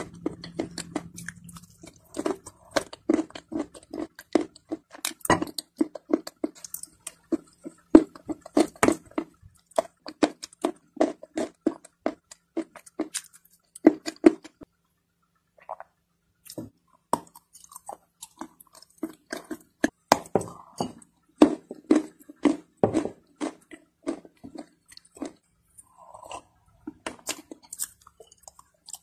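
Close-miked chewing of crunchy dry clay, a rapid run of sharp crunches that thins out briefly about halfway through.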